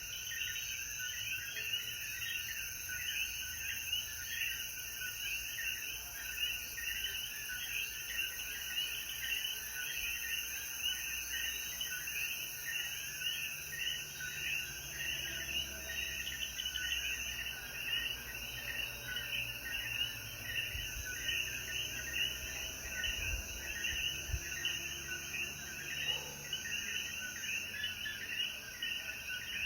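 A night chorus of Puerto Rican coquí frogs, many calling at once so their short two-note calls overlap in a constant dense pattern, over a steady high insect buzz.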